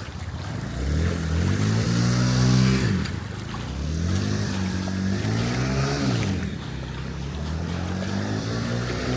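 Motor vehicles driving through a flooded street, their engines rising in pitch and falling away three times as they accelerate past, over a hiss of water spray.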